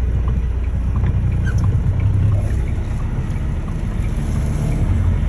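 Semi-truck cab while driving: a steady low rumble of engine drone and road noise, with a few faint scattered clicks.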